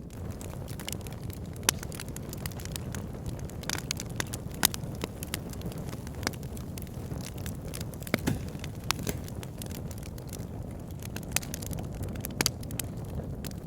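Wood fire burning in a log burner: a steady low rumble of flames with irregular sharp crackles and pops from the logs, a few louder snaps among them.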